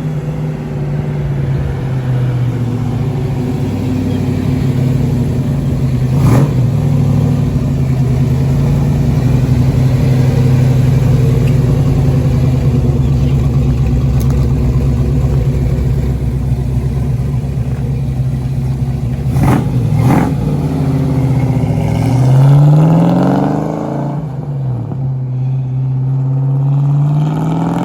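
A car engine running with a steady low rumble, with a few sharp cracks. Near the end it is revved twice, the pitch climbing and falling back each time.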